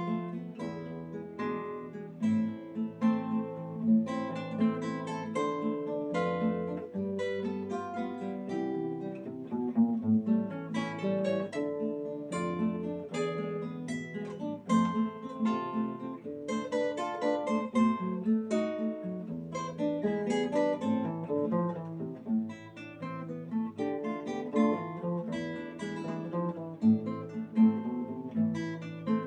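Guitar playing a solo piece: a continuous flow of plucked notes that overlap and ring on, with bass notes beneath the melody.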